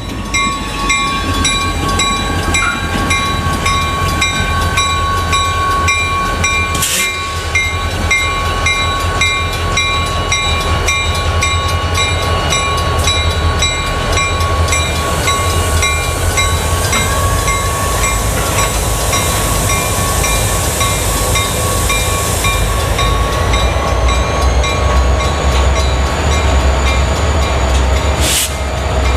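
Diesel-electric locomotives, two EMD SD40-2s and a GP38-3, passing through a grade crossing with a steady low engine rumble, while the crossing's Safetran mechanical bell dings in an even rhythm. Two sharp clanks stand out, about 7 seconds in and near the end.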